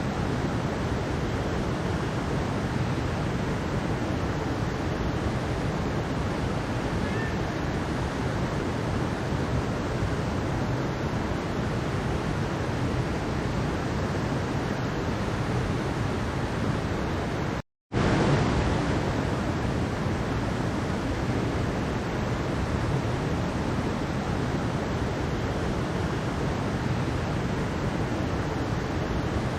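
Mountain stream water rushing steadily over rocks, an even, unbroken wash of sound. It drops out for a split second about two-thirds of the way through, then carries on.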